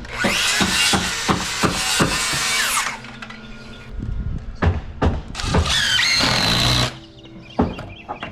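Wooden deck being torn apart with a pry bar and hammer: two long stretches of wood creaking and nails squealing as boards are levered loose, with sharp knocks of hammer blows in between.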